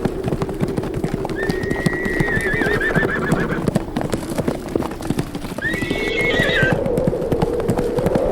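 A herd of horses running, with many overlapping hoofbeats, under a steady low howl of wind. A horse neighs twice, a long wavering whinny about a second in and a shorter one near the end.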